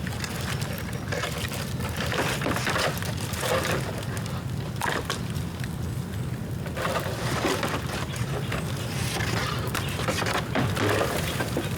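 Bamboo bonfire burning, the bamboo damp from rain: a steady low rush of flames with frequent crackles and snaps all through.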